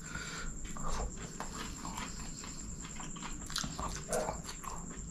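Close-miked chewing and wet mouth sounds of a person eating chicken kottu by hand and biting into chicken, with scattered smacks and clicks.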